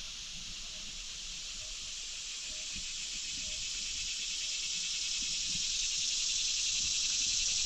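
Chorus of insects such as crickets or katydids: a steady, high-pitched trilling drone that grows gradually louder.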